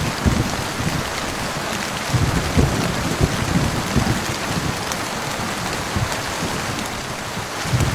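Heavy rain falling steadily, an even hiss of drops with an uneven low rumble underneath.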